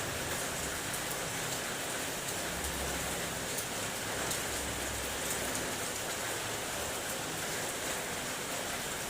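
Steady rain on a car's roof and body, heard from inside the car: a constant hiss with many individual drops tapping.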